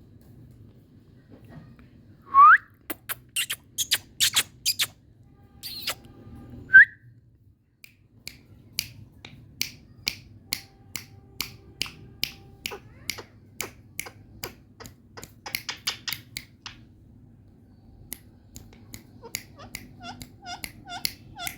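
Indian ringneck parrot making a long series of sharp clicks, broken by two short rising whistles, the loudest sounds. Near the end the clicks give way to a quick run of short falling chirps, about three a second.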